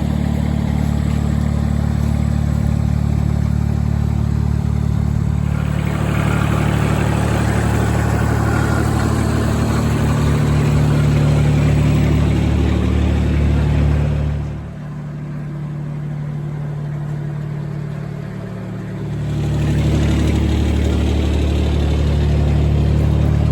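Terramite compact backhoe loader's engine running steadily under working load. Its note picks up about six seconds in, drops back for a few seconds around the middle, then rises again.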